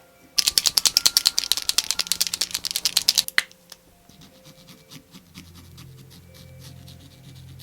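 Acrylic paint marker being shaken, its mixing ball rattling in quick, even clicks, about ten a second, for about three seconds before stopping abruptly.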